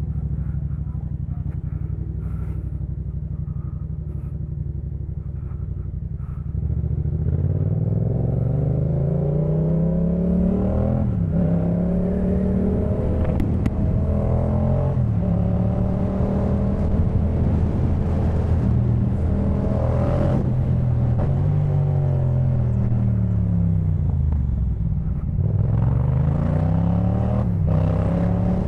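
2018 Yamaha MT-07's parallel-twin engine through a Jeskap K4 full exhaust, running low and steady for about six seconds, then pulling away. Its revs climb and fall several times as the bike shifts gears and slows and speeds up again.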